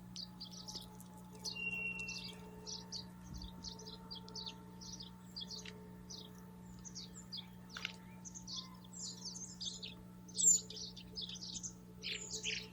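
Birds chirping in quick, repeated runs of short, high notes, with one sharper, louder chirp about ten seconds in.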